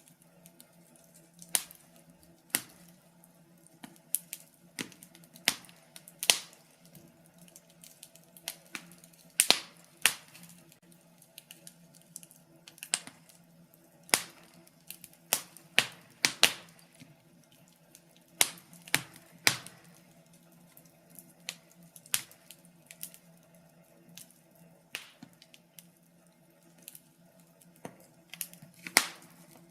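Wood fire crackling in a fireplace: irregular sharp pops and snaps, some loud and some faint, coming every second or so, over a faint steady hum.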